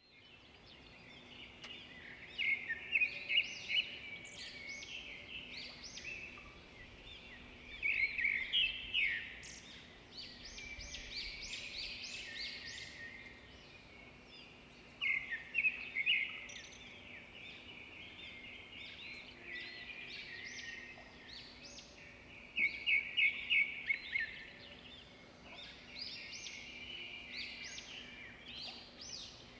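Birds chirping and singing: loud bursts of quick, high chirps and trills every six or seven seconds, with softer chirping in between, over a faint steady low hum.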